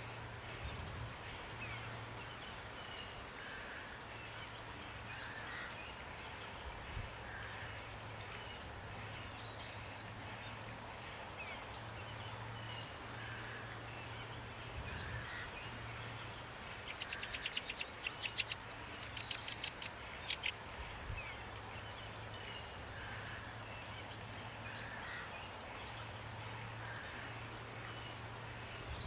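Steady rain hiss with small songbirds repeatedly singing short, high chirping phrases. A fast rattling trill comes a little past halfway.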